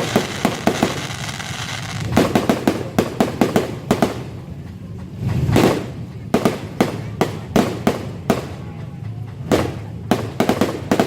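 New Year fireworks bursting: many sharp bangs in quick clusters, with a heavier boom about five and a half seconds in.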